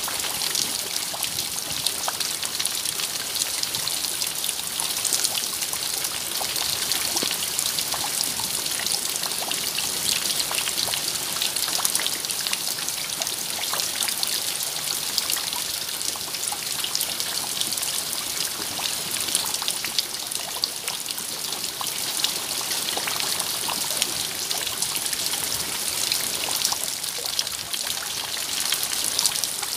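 Steady rain: an even hiss of falling rain with many small drop ticks, unchanging throughout.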